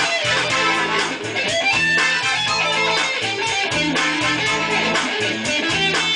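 Guitar music: many quick plucked notes over a low bass part with a steady, repeating rhythm.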